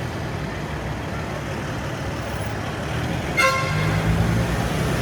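Steady city road traffic rumble, with a short single horn toot a little over three seconds in, followed by a vehicle's engine hum rising in the mix.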